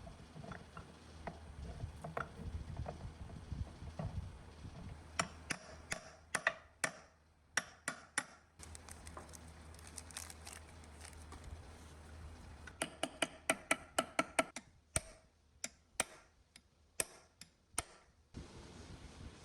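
Hand work on engine parts: a series of sharp, light clicks and taps in irregular clusters. A faint low hum sits underneath in the first half.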